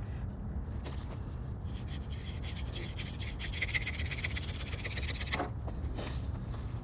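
Hand drill friction fire: palms rubbing a yucca spindle back and forth as it spins and grinds into a crepe myrtle hearth board. It makes a dry rasping that builds through the middle and eases off about a second before the end.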